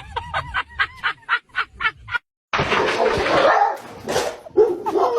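A dog yipping in a fast run of short, high calls, about five a second, that stops after about two seconds. A loud, noisy stretch follows, with a sharp peak about four seconds in.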